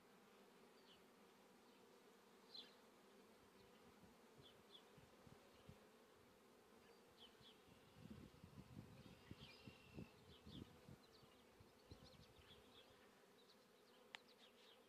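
Faint, steady buzzing of honeybees in flight, with a few soft low thumps around the middle.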